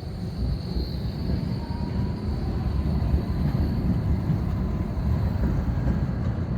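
Škoda 52T ForCity Alpha tram running in street service: a steady low rumble with a faint whine that rises slightly in pitch.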